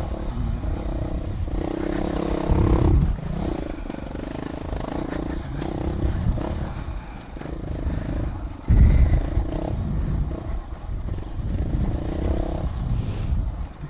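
Dual-sport motorcycle engine running on a trail ride, its pitch rising and falling as the throttle opens and closes. A louder low rumble swells about two seconds in and again near nine seconds.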